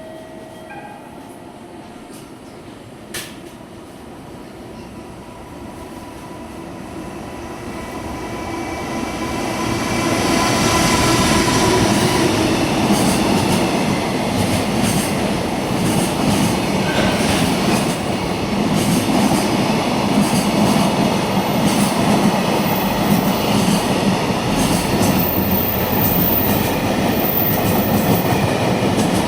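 JR Freight EF210 electric locomotive and its train of mostly empty container wagons passing. The sound grows louder over the first ten seconds or so, then becomes a steady loud rumble of wagons with a rhythmic clatter of wheels over rail joints and a faint high wheel squeal.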